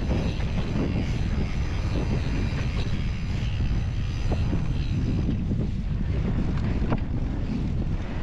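Wind buffeting the microphone as a mountain bike rolls along a dirt trail, with tyre and trail noise and a few small clicks and knocks.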